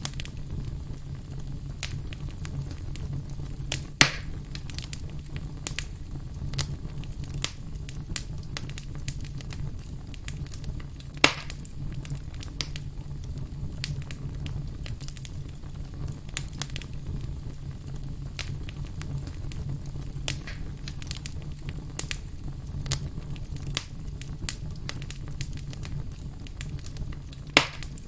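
Firewood logs burning: a steady low rumble of flame under frequent sharp crackles, with three louder pops, about four seconds in, around eleven seconds, and near the end.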